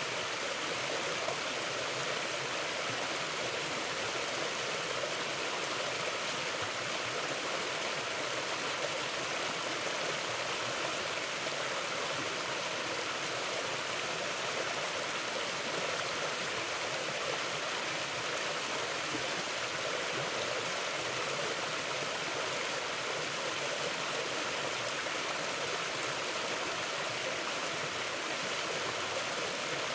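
Stream of water flowing over rocks, a steady, even rushing with no change in level.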